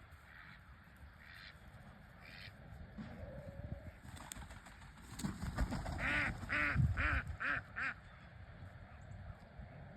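Duck quacking: a few soft calls in the first few seconds, then a loud series of five quacks, about two a second, around six seconds in.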